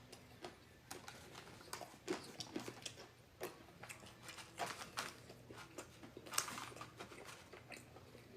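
Chewing and lip-smacking, heard close up: irregular soft clicks and small crunches, with the sharpest click about six seconds in.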